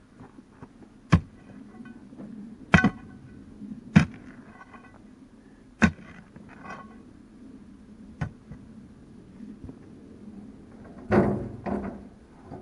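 Rubble stone and a digging tool knocking in a foundation pit being packed with stone. There are about five sharp clacks a second or two apart, some with a short ring, then a longer scraping clatter and another knock near the end.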